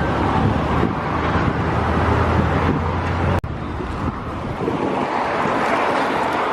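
Wind buffeting the microphone outdoors, a dense steady rush with a low hum underneath through the first half. The sound cuts out for an instant about three and a half seconds in, then the wind noise carries on.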